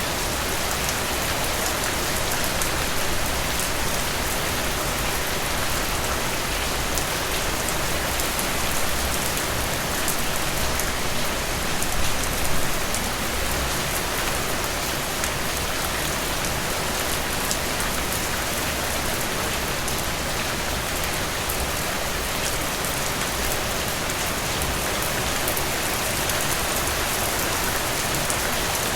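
Heavy rain falling steadily, a dense wash of drops hitting surfaces, with a brief swell about twelve seconds in.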